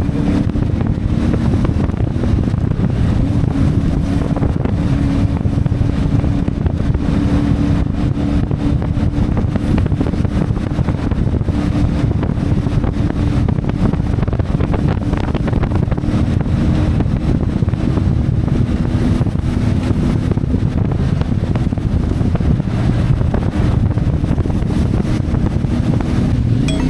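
CFMoto 450MT motorcycle's parallel-twin engine running at a steady cruise, with wind rushing over the microphone. The engine note holds nearly level and shifts only near the end.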